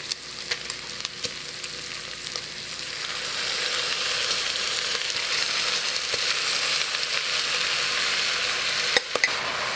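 Bacon and onions sizzling in a hot stainless steel pot as sauerkraut is forked in from a glass jar. The sizzle grows louder about three seconds in. A few light clicks of the fork on the jar and pot, with two sharper ones near the end.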